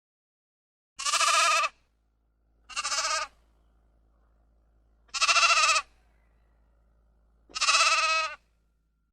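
Sheep bleating four times: short, wavering calls, each under a second, with pauses between them.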